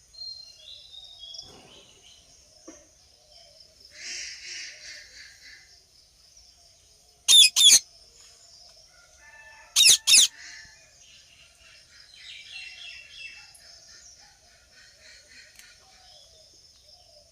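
Parrot giving two loud, harsh double screeches, about two and a half seconds apart, over faint continuous chirping of other birds.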